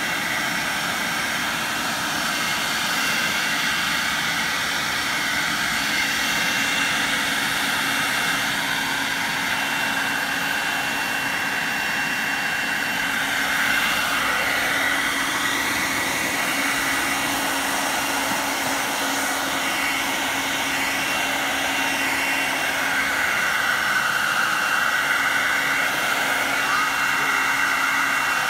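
Bosch garden leaf vacuum running steadily, its motor whine over a rush of air.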